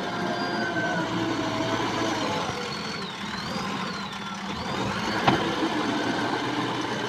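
JCB backhoe loader's diesel engine running steadily while working, with a single sharp knock a little past the middle.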